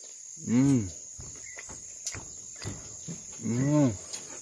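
A man humming "mmm" twice with his mouth full while chewing: two short hums, each rising then falling in pitch, about half a second in and again near the end, the sound of savouring the food. A steady high insect drone runs behind.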